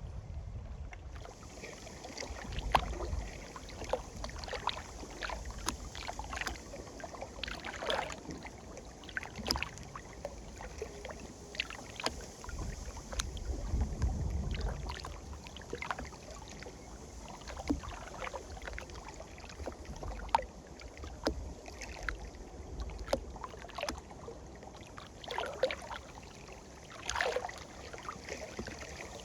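Small wind-driven waves lapping and splashing irregularly against the lake shore, with gusts of wind rumbling on the microphone now and then.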